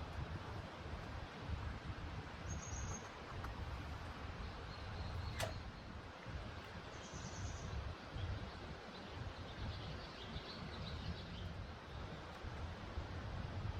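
Outdoor ambience: a steady rushing noise with a low rumble, a few short bird chirps, and one sharp click about five seconds in.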